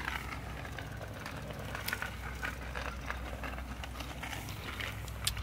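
Steady low rumble of outdoor background noise with a few scattered light clicks and taps, typical of a family bike ride.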